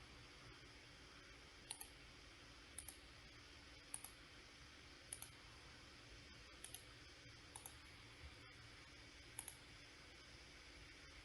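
Computer mouse clicks, each a quick pair of ticks, coming about once every second or so over faint steady hiss and a low hum.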